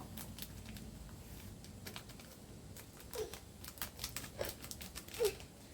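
Irregular crackling and clicking, like dry material being handled or crushed, with three short, faint animal calls about three, four and a half and five seconds in.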